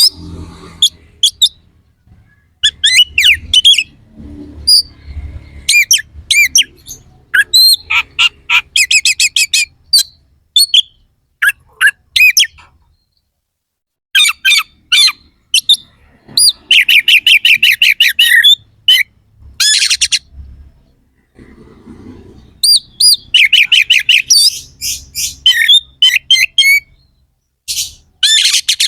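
Oriental magpie-robin (kacer) singing full song in rapid bursts of harsh, high, fast-repeated notes and whistles, phrases separated by short pauses, with a brief lull about 13 seconds in.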